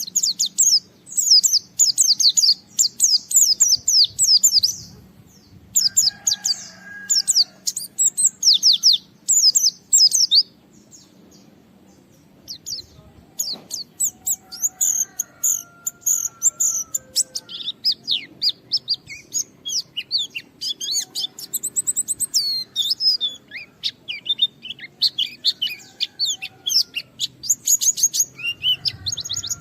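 A white-eye (pleci) singing in fast, dense runs of high chirping notes, pausing for about two seconds partway through before starting again. This is the lively, persistent 'gacor' song used to provoke other white-eyes into singing.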